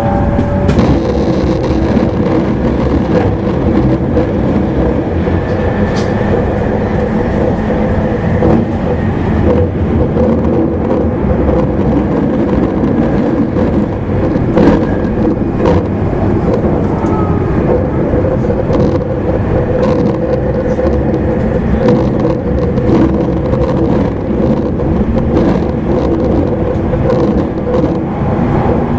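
Cabin running noise of an E259 series Narita Express motor car at speed: a steady hum of motor and gear tones over wheel-on-rail rumble, with frequent clicks from the rail joints.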